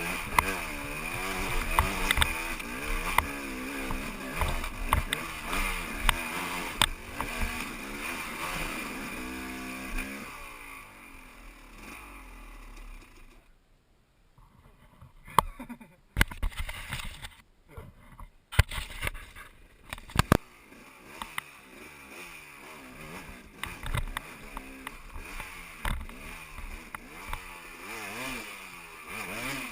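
Dirt bike engine revving up and down, with sharp knocks. About halfway through, the engine sound drops away to a quiet stretch broken by a few clicks, then the revving picks up again.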